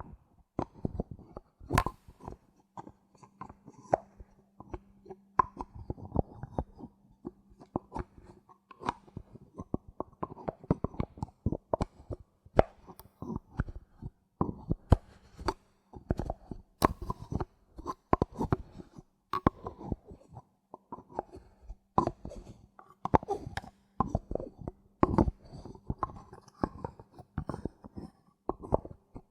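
Bottle caps handled close to the microphone: a rapid, irregular stream of sharp clicks and taps, with a faint steady low hum underneath.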